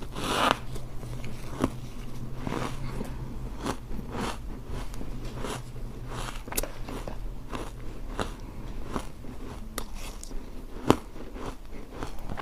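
Refrozen block-ice chunks dusted with matcha powder being bitten and chewed close to the microphone: a long run of hard crunches and sharp cracks, the heaviest bite about half a second in and a sharp crack near the end.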